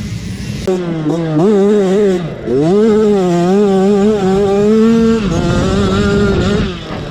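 Motocross dirt bike engine revving hard, its pitch repeatedly climbing and dropping as the throttle is worked, with a brief drop-off about two and a half seconds in.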